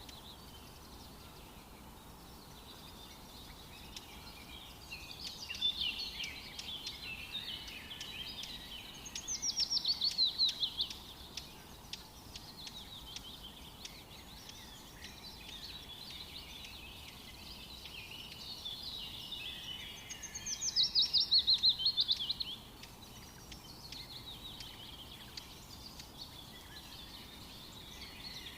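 Forest birds singing and twittering over a steady background hiss. Twice, about ten and twenty-one seconds in, one bird sings a louder phrase of quick repeated notes that slide downward, each phrase lasting about two seconds.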